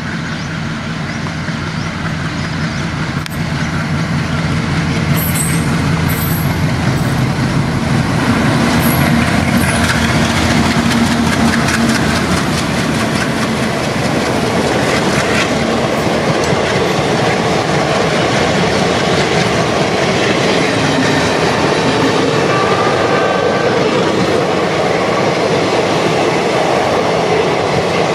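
ALCo diesel locomotives chugging as they come closer and grow louder. The steady rapid clatter of the train's wheels over the rail joints then takes over as the train rolls past, with a few brief high squeals in the first seconds.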